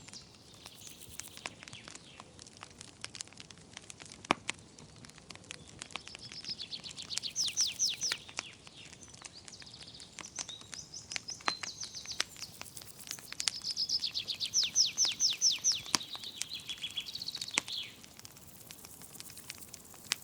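Wood fire crackling with scattered sharp pops, one louder pop about four seconds in. Over it songbirds sing repeated phrases of rapid trills and quick down-slurred notes, busiest in the second half.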